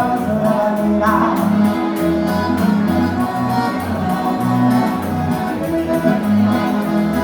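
Instrumental band dance music: sustained melody lines over a bass that changes note on a steady beat.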